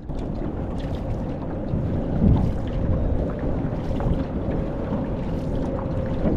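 Wind rumbling on the microphone over open water, with a faint steady hum throughout.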